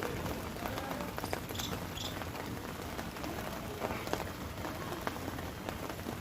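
Rain falling steadily, with scattered ticks of individual drops.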